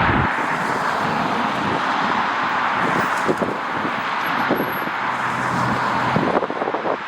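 A jet airliner's engines giving a steady rushing noise, with wind buffeting the microphone.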